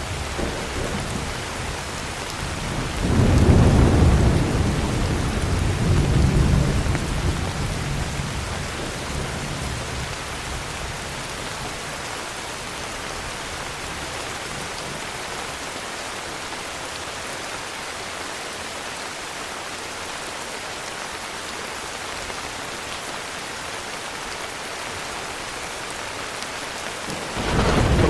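Heavy rain falling steadily, with a rolling rumble of thunder swelling about three seconds in, rising again around six seconds and dying away by about ten; another rumble of thunder begins near the end.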